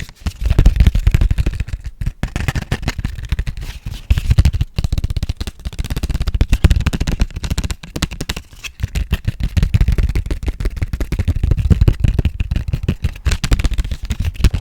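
Fast, aggressive ASMR triggers handled right at a highly sensitive microphone: a dense stream of quick taps, scratches and clicks with a heavy low rumble, pausing briefly a few times.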